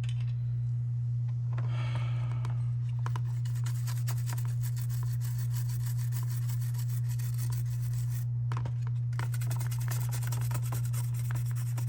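Small plastic model-car parts being scrubbed and rubbed by hand after soaking in paint-stripping alcohol: a run of quick faint scratchy strokes over a steady low hum.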